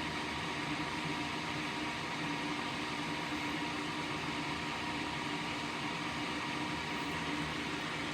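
A steady mechanical hum with a hiss over it.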